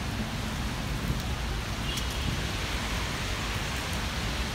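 Rain pouring down steadily, a dense hiss with a low rumble underneath.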